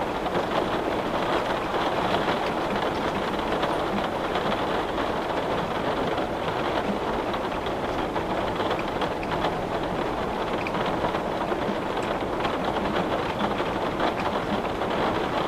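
Steady rain at a window: an even hiss of falling rain, dotted with many small drop ticks, at a constant level.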